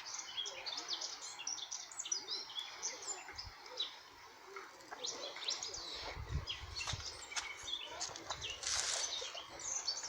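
Several small birds chirping and singing, with many short, quick notes overlapping throughout. A brief low rumble comes about six seconds in.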